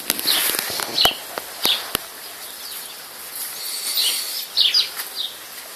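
Small birds chirping in short, high bursts, over rustling and sharp clicks of clothing rubbing against the microphone.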